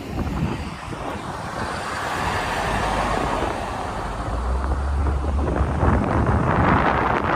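Strong wind rushing and buffeting the microphone, swelling in gusts toward the end.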